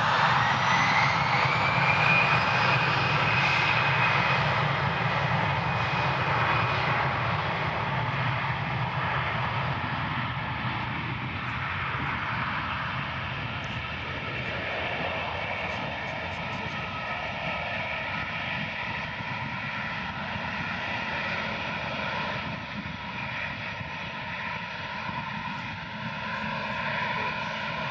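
Airbus A320 airliner's jet engines at high power on departure, a steady roar with a whine that rises over the first few seconds and then holds, slowly fading as the aircraft moves away.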